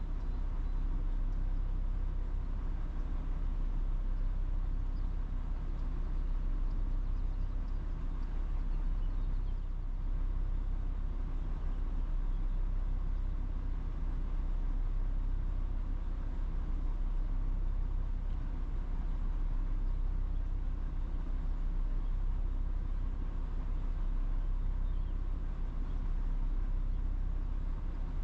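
A steady, low mechanical hum with a few constant tones, unchanging throughout.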